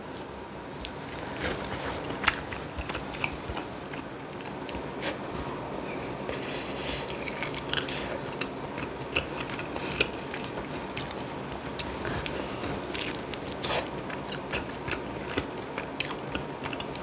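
A person eating braised kimchi and pork back ribs: chewing and biting with many small wet mouth clicks and a few sharp clicks.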